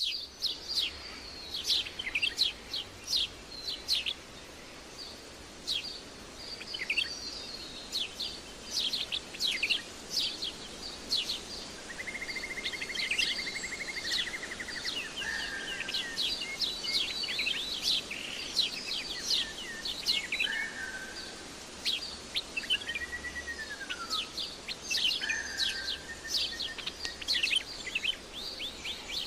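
Several birds chirping and calling at once, with quick high chirps throughout. A lower buzzy trill comes in about twelve seconds in, and a falling whistled note comes later.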